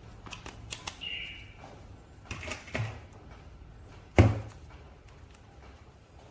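Handling noises from an action figure and its packaging: scattered light plastic clicks and a short rustle, then one sharp knock a little after four seconds in, as of something set down hard.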